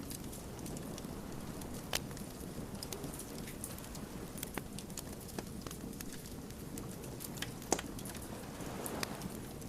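Wood campfire crackling: irregular sharp snaps and pops over a steady low rumble of burning, with a couple of louder pops.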